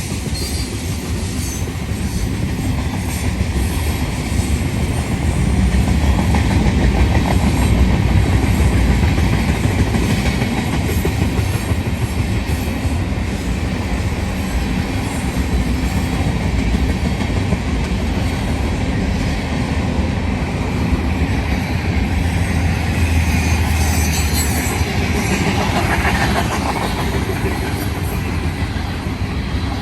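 Freight cars of a heavy mixed manifest train rolling past, a steady loud rumble of steel wheels on the rails.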